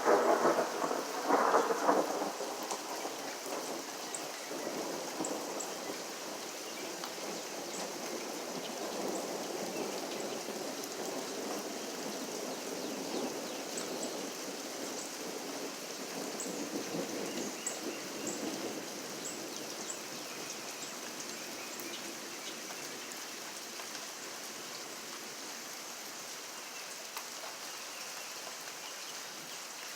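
Steady rain with thunder: a loud clap in the first two seconds, then a rumble that rolls on and fades away over about twenty seconds, leaving the rain hiss and scattered drips.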